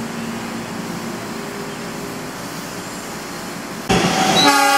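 Electric commuter train running along the station platform, a steady rolling and motor rumble. About four seconds in the sound jumps louder, and a loud steady pitched tone begins near the end.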